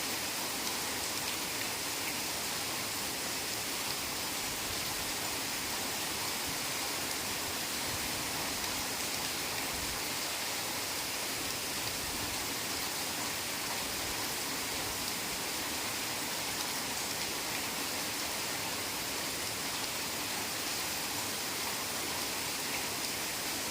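Heavy rain falling steadily on forest foliage, an even, unbroken hiss with no single drops or thunder standing out.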